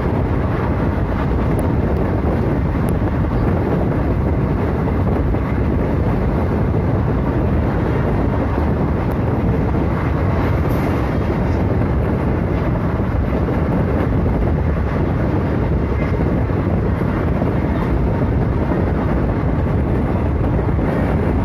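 Running passenger train: a steady, unbroken rumble and rush of wheels on rail, with no speech.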